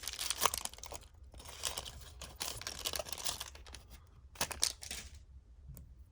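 A trading-card pack's wrapper being torn open and crinkled by hand, a dense run of crackling and tearing that stops about five seconds in.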